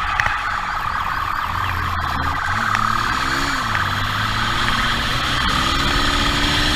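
Police siren sounding steadily over a vehicle engine whose pitch rises and falls as it speeds up and slows.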